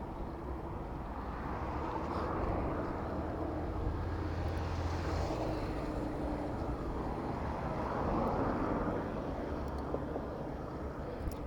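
City road traffic: motor vehicle engines running around a moving bicycle, swelling about two seconds in and again about eight seconds in as vehicles pass.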